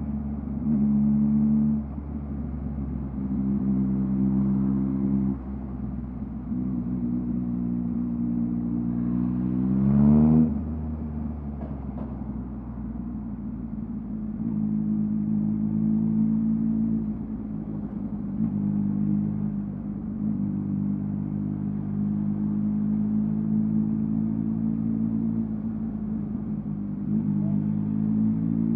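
2023 Yamaha MT-09's three-cylinder engine running through a LeoVince LV Race exhaust while riding, its revs stepping up and down. About ten seconds in there is one quick rev that climbs in pitch and gets louder, then drops back.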